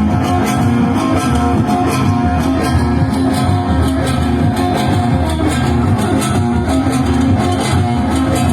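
Loud live band music playing continuously, with a repeating beat.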